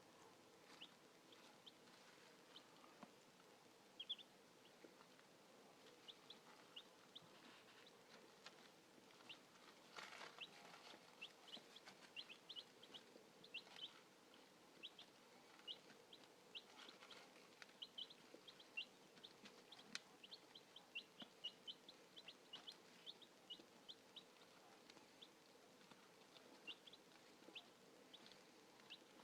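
Young chicks peeping: many short, high cheeps, often several a second, going on throughout, with a faint click about twenty seconds in.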